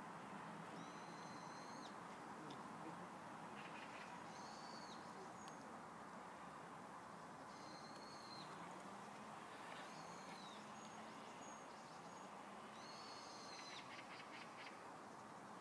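Faint bird calls: five short high whistled notes, about one every three seconds, with a few quick chattering notes among them, over a steady faint background hum.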